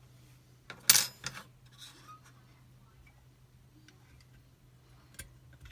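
Metal parts of a Chubb Detector lever lock clicking and clinking as it is dismantled and its levers are handled: one sharp click with a short ring about a second in, a few lighter ticks after it, and another click near the end.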